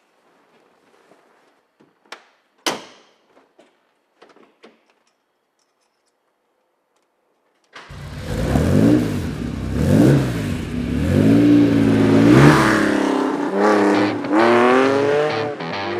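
A few light clicks and one sharp clack, then a classic Porsche 911's air-cooled engine starts about eight seconds in and is revved several times, pitch climbing and falling, before accelerating away.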